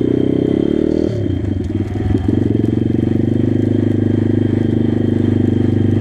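Pit bike's small single-cylinder engine running under way; about a second in the note drops and wavers as the throttle eases off, then it picks back up and runs steady.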